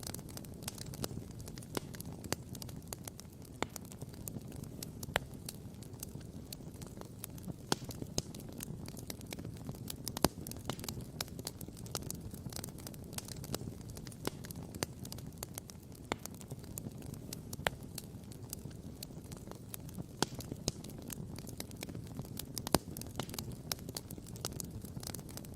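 Wood campfire crackling and popping: dense, irregular sharp snaps with a few louder pops, over a steady low rumble.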